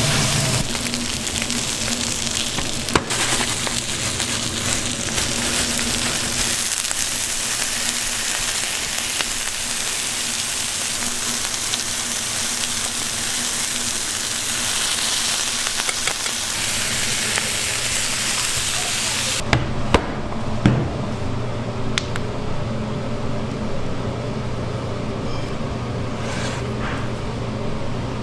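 Chicken sizzling as it cooks, a dense steady hiss. About two-thirds of the way through the sizzle stops abruptly, leaving a low steady hum with a few sharp clicks.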